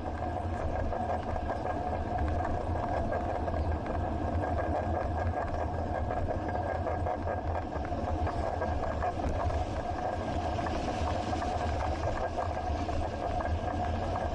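Steady low rumble with a constant hum, the ride noise picked up by an action camera on a moving bicycle.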